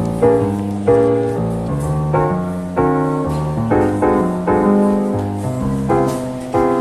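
Background music: piano chords struck about once a second, each note fading after it is played.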